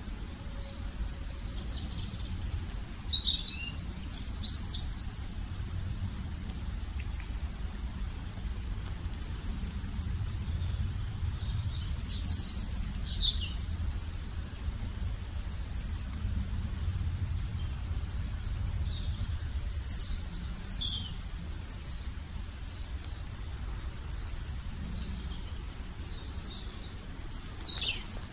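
Small birds chirping and calling in short, high flurries that come and go every few seconds, over a steady low rumble.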